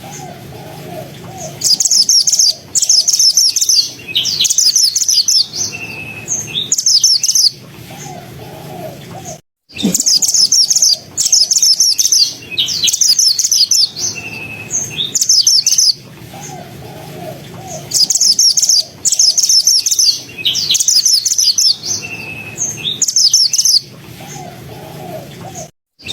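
Mantenan bird singing: loud, high-pitched, rapid chattering phrases of one to two seconds each, repeated with short pauses. The song cuts out briefly about nine seconds in and then resumes.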